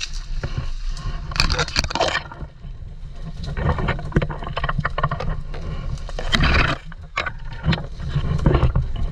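A steady low rumble on the microphone, with three spells of louder rustling about a second and a half, four seconds and six seconds in, and scattered clicks.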